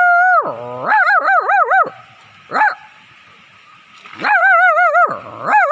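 A person's voice imitating a dog howling: a held note that drops away, then several wavering, warbling howls and a short yelp.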